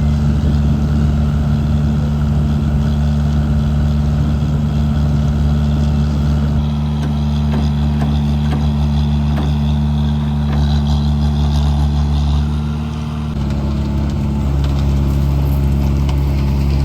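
Engine of road-construction machinery running steadily, a loud low hum that holds its pitch. Its tone shifts abruptly about thirteen seconds in.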